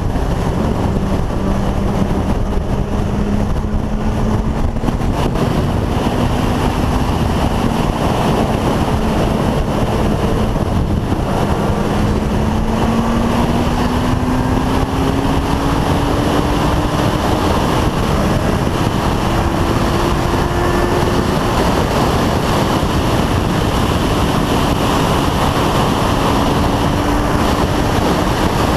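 Motorcycle riding at speed: heavy wind rushing over the microphone, with the engine's hum underneath rising slowly in pitch as it accelerates around the middle, then dropping back.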